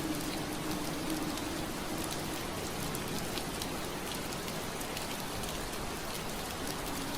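Steady rain pattering on window glass, with scattered individual drop ticks through a continuous hiss. A low steady hum fades out about a second and a half in.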